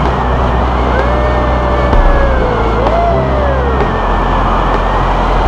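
Loud wind rushing over an action camera's microphone in flight, with whistling tones that slide slowly up and down.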